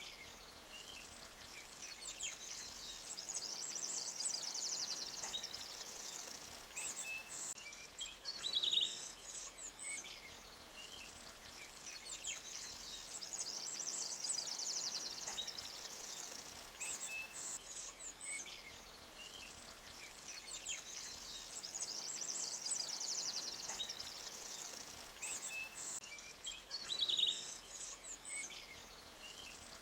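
Forest ambience: birds chirping, with a high trill that swells about every nine seconds and two sharper chirps, over a faint steady rush of a small creek.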